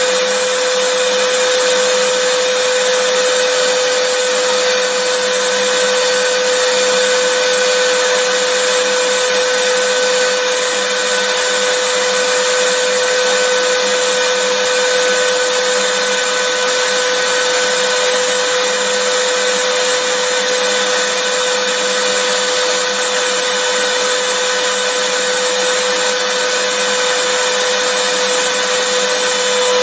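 Vacuum cleaner running steadily: a constant motor whine over an even rush of air, unchanging throughout.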